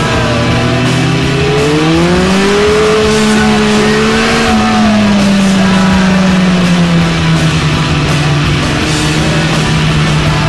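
Kawasaki ZX-9R inline-four engine accelerating: its note climbs over the first few seconds, then drops slowly and settles to a steady cruise. Music plays over it.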